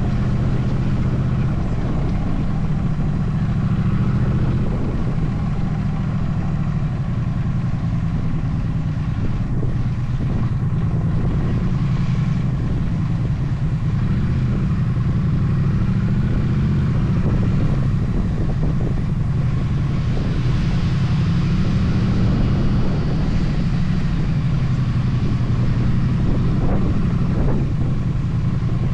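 Motorcycle engine running steadily under way, its low note wavering a little with the throttle, over a steady rush of wind and road noise.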